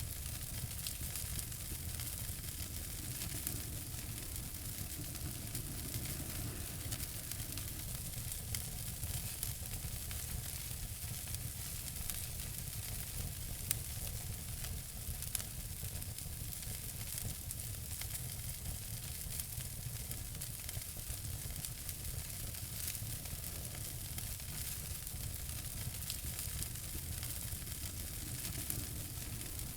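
Wood fire burning in a fireplace: a steady hiss and low rumble with frequent small crackles and pops, one sharper pop about fourteen seconds in.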